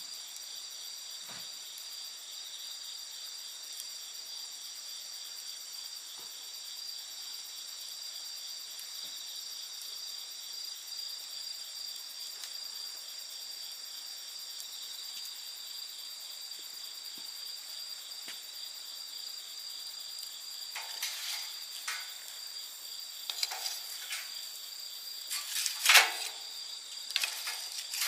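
Crickets or other night insects trilling steadily. From about twenty seconds in, a campfire starts crackling and popping in short snaps, with one loud pop near the end.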